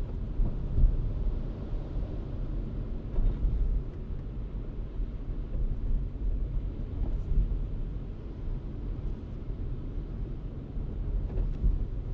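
Steady low rumble of a car driving: road, tyre and engine noise heard from the moving car.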